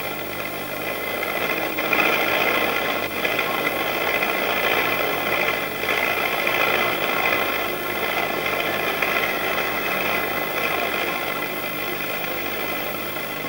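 Skidding tractor's engine running steadily, a little louder from about two seconds in.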